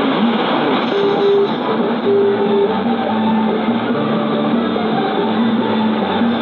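Music received on a medium-wave AM radio station, heard through the receiver with a steady hiss of band noise over it and the narrow, dull sound of AM reception, with no treble.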